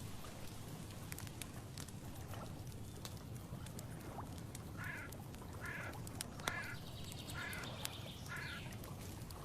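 A bird calling five times in an even series, about one call every three quarters of a second, over a steady low rumble with scattered faint ticks.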